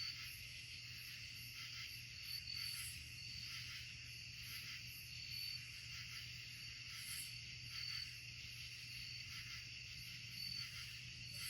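Night insect chorus: a steady high trill with a short, higher chirp every second or two, over a faint low hum.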